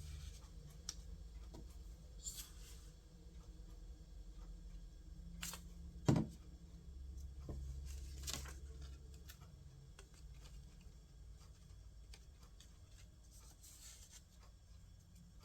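Paper craft pieces being handled: a few short rustles and light taps scattered through, the sharpest about six seconds in, over a low steady hum.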